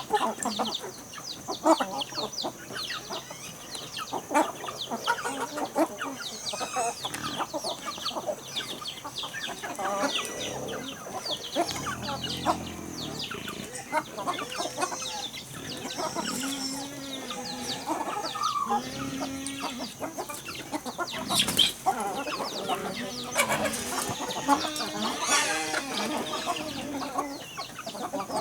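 Chickens clucking, with many short calls and, in the second half, longer arched calls. A steady high-pitched whine runs underneath.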